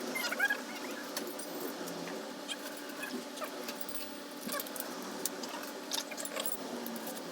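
Scattered light metallic clicks and clinks of hand tools and small metal parts being handled while the motorcycle is stripped, over a steady background hum.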